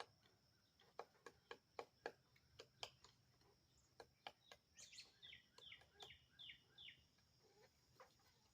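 Pileated woodpeckers: faint, irregular sharp taps, then a run of five short down-slurred calls about halfway through.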